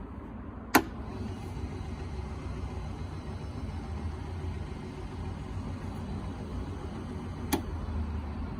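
REXON WG-180 electric whetstone blade grinder running with a steady low motor hum. Two sharp clicks cut through, about a second in and again near the end.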